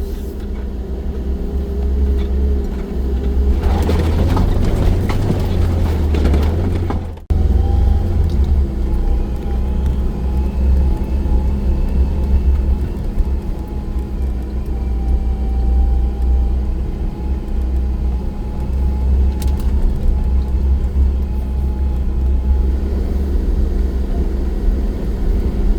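Off-road vehicle engine running steadily while driving through snow, with a heavy low rumble; a louder rushing noise swells for a few seconds before an abrupt cut about seven seconds in.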